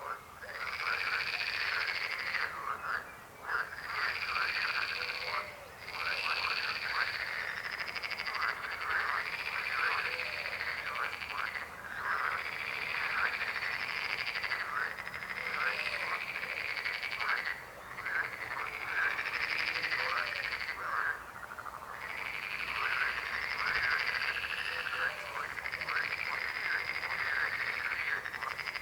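A chorus of many frogs croaking continuously in dense, overlapping runs of rapid calls, with a few brief lulls.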